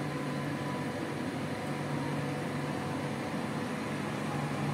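Standing electric passenger trains humming steadily at idle, their auxiliary equipment running with a constant low drone and a faint higher whine.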